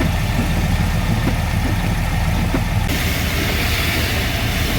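Mack dump truck's diesel engine running steadily, heard from inside the cab, under a constant hiss of road and rain noise. The hiss grows brighter about three seconds in.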